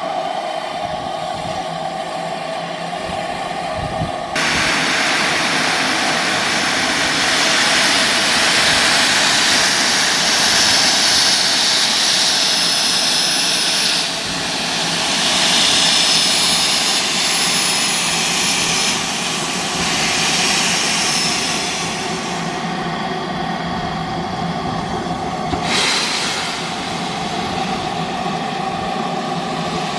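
Steam locomotive venting steam: a loud hiss that starts suddenly about four seconds in and swells and eases, changing in strength several times.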